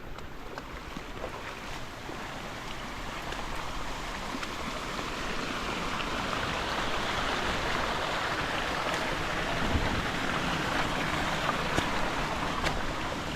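Rain-swollen creek rushing in flood, a steady hiss that grows louder over the first several seconds and then holds.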